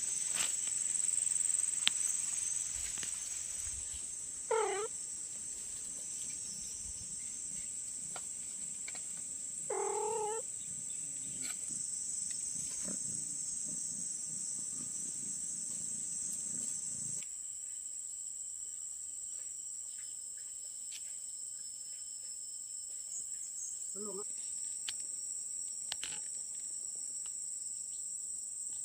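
Kitten meowing three times, short calls spaced several seconds apart, over a steady high-pitched chirring of insects.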